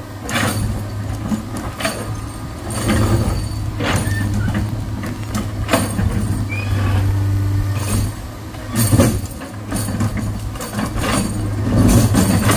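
A heavy diesel engine runs steadily under load, broken by irregular sharp knocks and clatters every second or two, most strongly about nine seconds in and again near the end.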